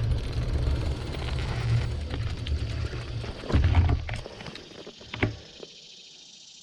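Wind buffeting the microphone of a camera riding along on a moving bicycle, with scattered clicks and rattles. The rumble drops away about five seconds in, leaving a few faint clicks.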